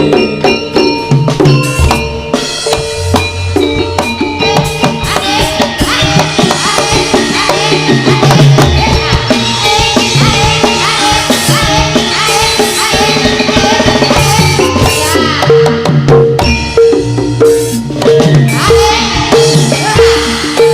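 Instrumental break of a live Javanese turonggo (jaranan) band: driving drums and percussion with melodic instruments, no singing. In the latter part a short mid-pitched note repeats at an even pace over the drumming.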